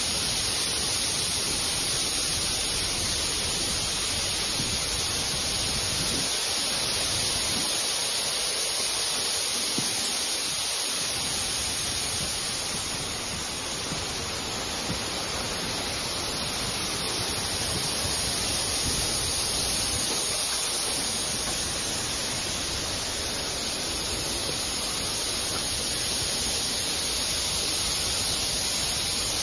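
Steady rushing noise of a moving train, air rushing past and the carriage running along the rails, heard with the microphone held out of the carriage window.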